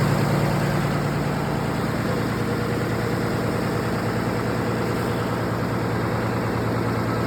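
Isuzu truck engine idling steadily, with a low even running note.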